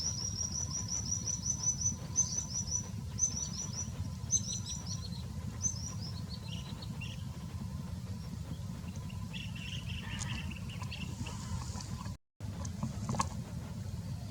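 A bird chirping: quick runs of high, short chirps over the first half, then a few lower calls, over a steady low rumble.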